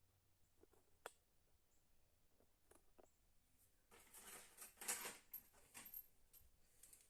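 Faint handling noises: a few light clicks, then a short scraping rustle about four to five seconds in.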